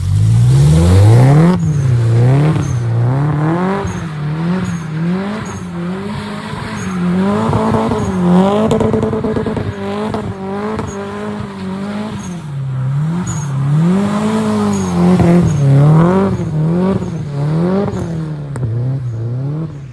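Subaru Impreza's flat-four engine revved hard again and again as the car spins donuts on snow. The pitch climbs and drops roughly once a second, at times held briefly at the top.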